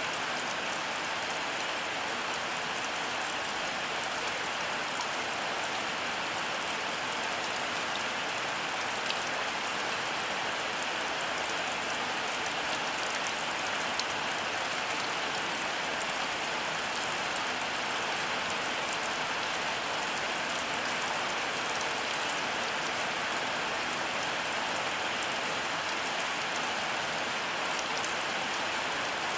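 Heavy rain falling steadily, with a dense patter of drops hitting surfaces.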